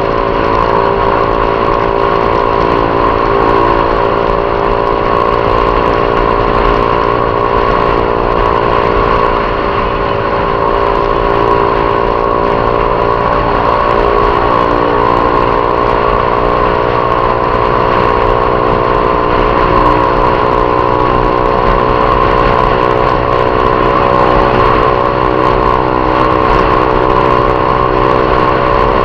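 Honda CG 150 Titan's single-cylinder four-stroke engine running at a steady cruising speed while being ridden. The engine note holds steady, with small changes in pitch around the middle.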